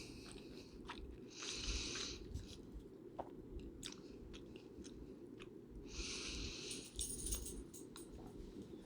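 Close-up eating sounds: chewing with scattered wet mouth clicks, and two louder hissy stretches, one about a second and a half in and one about six seconds in, over a steady low hum.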